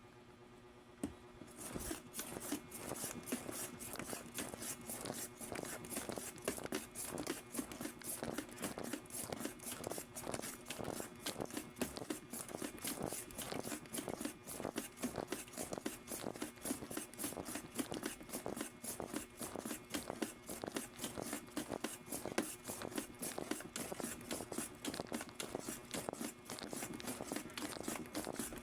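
Quick, repeated scraping and crunching strokes, many a second, which start about a second and a half in and keep going steadily.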